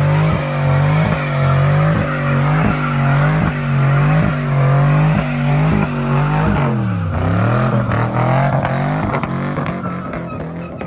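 Car engine held at high revs during a burnout, with tyre noise; the revs dip and recover at a steady pace of slightly more than once a second. About two-thirds of the way through they drop sharply and climb again, and the sound ends abruptly.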